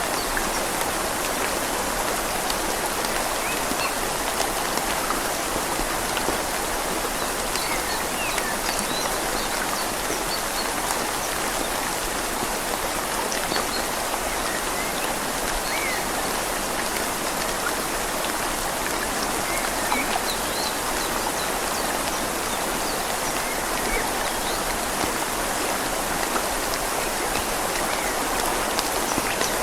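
Steady rain falling on leaves, mixed with the even rush of a flowing river.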